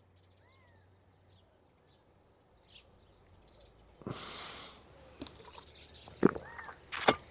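Faint, short chirps from a bird nesting in the steel beams of a canopy. About four seconds in there is a brief rushing noise, and near the end a few sharp clicks, the loudest about seven seconds in.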